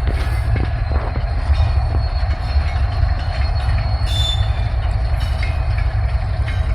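Freight train cars rolling past on the rails: a steady heavy rumble with scattered clicks from the wheels and track, and a brief high wheel squeal about four seconds in.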